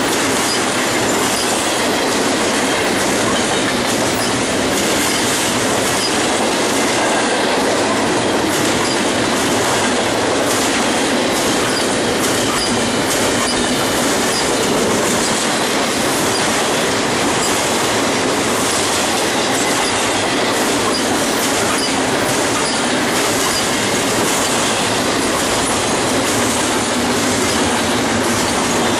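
Double-stack intermodal freight cars rolling past close by: a steady, loud rolling noise of steel wheels on the rails.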